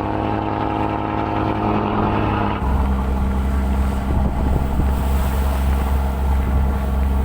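A boat engine drones steadily. About two and a half seconds in, the sound switches abruptly to a lower, heavier engine drone with more hiss over it.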